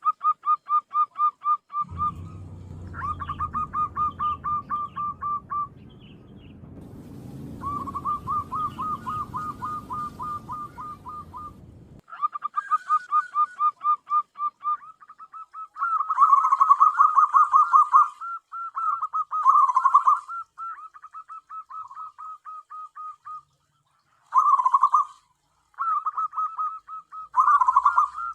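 Zebra dove (perkutut) calling in long runs of short, quick cooing notes, about five or six a second, with short pauses between runs. From about 2 to 12 s a low rumble lies under the calls, and in the second half brief high chirps come with the louder bursts.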